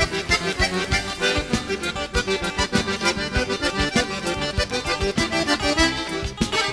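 Instrumental break of southern Brazilian gaúcho dance music: an accordion plays the lead melody over a band keeping a steady dance beat.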